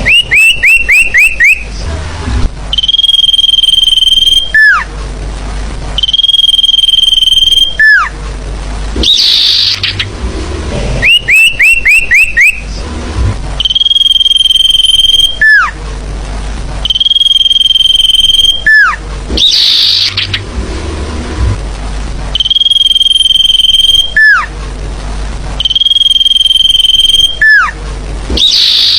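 Recorded forest bird calls played as a bird lure: loud steady whistled notes about a second and a half long alternate with quick runs of five or six rising chirps, sharp down-slurred calls and short harsh bursts. The same sequence repeats about every ten seconds, as a looped lure track does.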